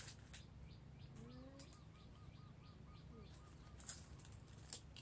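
Faint bird calls: a run of short repeated notes, about four a second, with a lower rising call at the start of the run. A couple of sharp clicks near the end.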